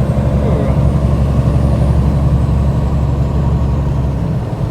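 Heavy truck's diesel engine running steadily with a deep, even rumble that eases slightly near the end.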